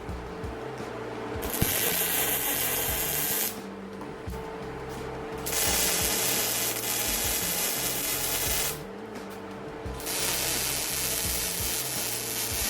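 Welding arc crackling in three runs of about two to three seconds each, starting and stopping abruptly, over background music.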